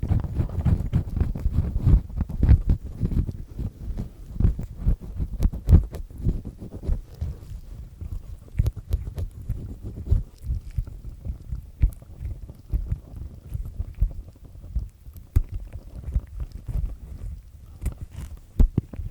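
Black triple-disc ear pick scraping inside an ear canal, heard very close: a dense, irregular run of low, rough scratching strokes with sharp clicks among them, a little stronger in the first few seconds.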